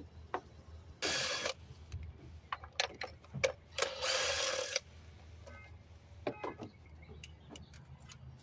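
Hand tools working on top of an engine while an ignition coil is pulled for a spark plug swap: a sharp click, two short raspy bursts about a second and four seconds in, and scattered clicks and knocks between them.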